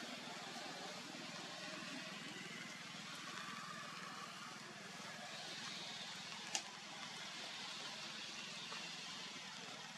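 Faint steady background noise, with a single sharp click about six and a half seconds in.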